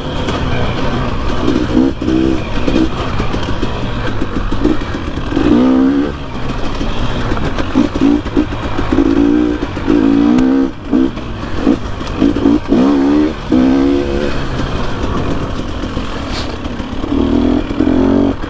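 Dirt bike engine revving up and down in repeated short bursts, its note climbing with each blip of the throttle over a steady low rumble.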